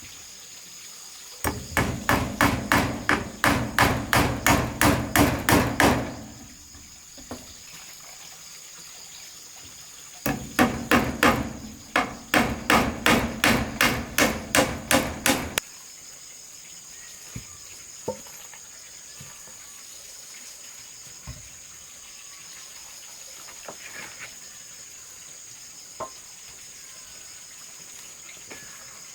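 Hammer blows on wood in two quick runs of about three to four strikes a second, each lasting about five seconds, then a few faint knocks. A steady high insect drone runs underneath.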